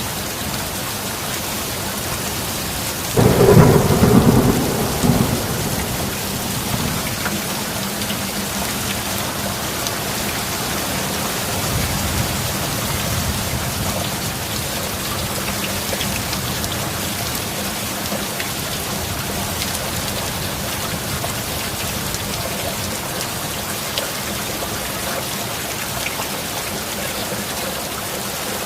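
Steady rain with a sudden loud clap of thunder about three seconds in that rolls away over a couple of seconds, and a fainter roll of thunder near twelve seconds.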